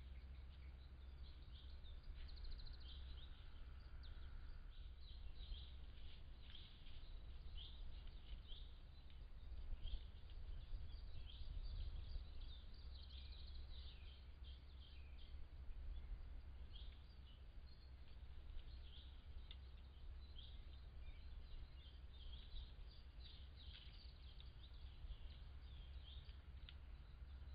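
Small birds chirping and calling in many quick short notes throughout, over a faint steady low rumble.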